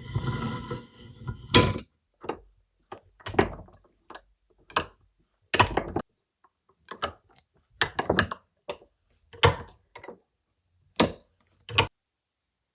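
A dozen or so separate short knocks and clunks at irregular intervals, with dead silence between them, after a brief stretch of noise at the start.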